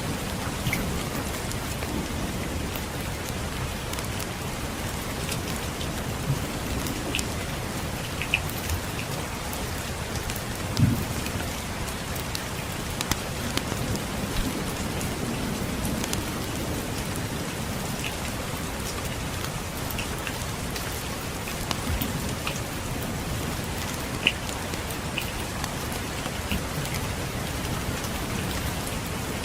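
Steady rain falling on surfaces, with scattered sharp pops and clicks of a crackling wood fire, the loudest about eleven seconds in, and low rumbling of distant thunder.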